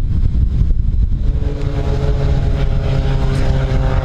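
Wind buffeting the microphone, and from about a second in an aircraft engine running steadily, a hum with several held pitches that grows stronger.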